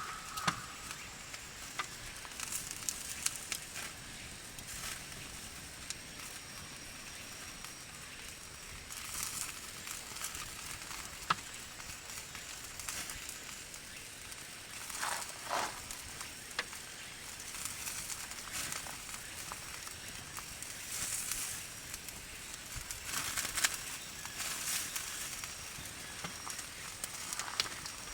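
Wood campfire crackling, with sharp pops scattered through, over a steady sizzle of yakitori chicken skewers grilling above the flames.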